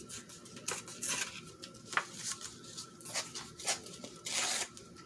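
Craft paper being handled: a series of short, irregular paper rustles and crinkles, the longest about four seconds in.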